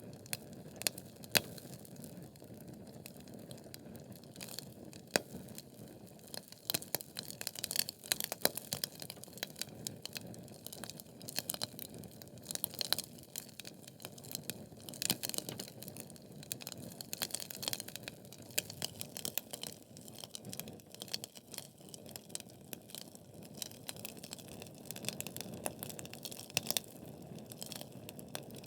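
Wood fire in a fireplace, logs burning with a steady low rush and frequent irregular crackles and sharp pops.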